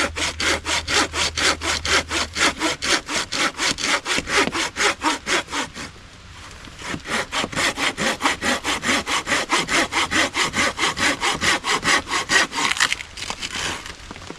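Hand saw cutting through a wrist-thick wet wood branch, with fast, even back-and-forth strokes. The sawing pauses briefly about six seconds in, then resumes and stops shortly before the end.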